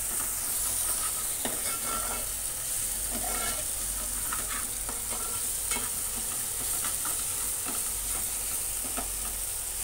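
Onions and ginger-garlic paste sizzling steadily in oil in a stainless steel pot while a steel ladle stirs them, its edge clicking and scraping against the pot again and again.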